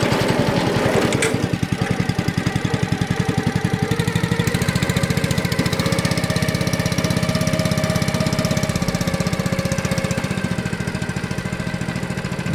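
Small single-cylinder boat engine running with a fast, even chugging beat, easing slightly about a second and a half in.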